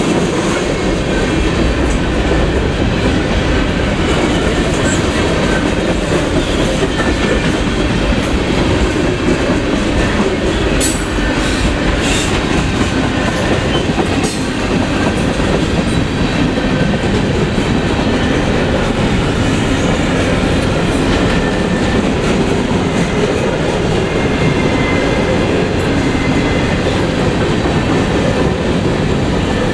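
Freight train cars rolling steadily past, a continuous rumble of wheels on rail with a few sharp clicks a little before the middle.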